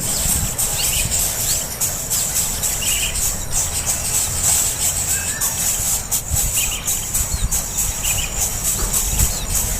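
Birds chirping: short high calls and quick rising peeps every second or two, over a steady high-pitched drone and a low rumble.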